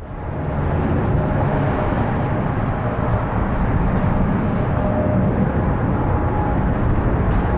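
Jet engines of an Airbus A321-200 airliner on approach to land: a steady rush with a faint whine.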